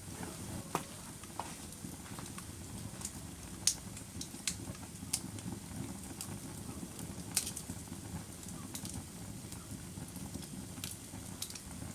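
Wood fire burning: a steady low rumble with sharp crackles and pops at irregular intervals, the loudest pop a little under four seconds in.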